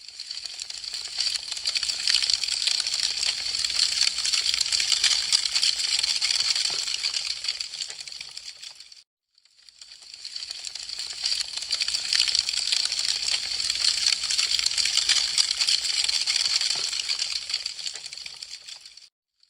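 Wood fire crackling: a dense, crisp run of sharp pops and snaps. It fades away about nine seconds in, drops out briefly, fades back up, and cuts out again just before the end.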